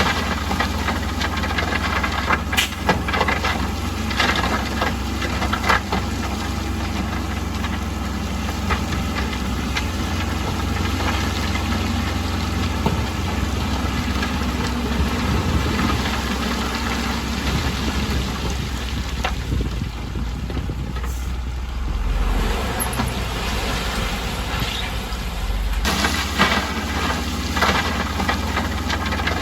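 Bulldozer's diesel engine running steadily with a deep rumble, with scattered sharp metallic clanks; the higher-pitched noise eases off for several seconds near the end, then comes back.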